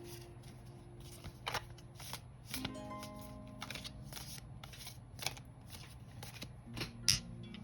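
A deck of tarot cards being shuffled by hand, a short papery swish about every half second, over soft harp music with plucked notes sounding a few times.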